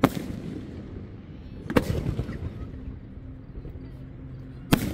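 Aerial firework shells bursting overhead: three sharp bangs, one at the start, one just under two seconds in and one near the end, each trailing off in a low rumbling echo.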